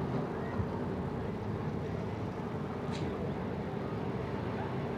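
Steady low drone of a boat's engine running, with a few even hums held at one pitch.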